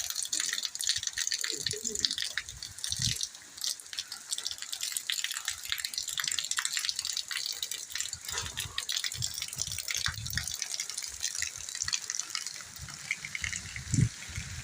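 Rain falling and water splashing on a wet street: a steady hiss full of fine crackling patter. A few low thuds, and one loud thump near the end.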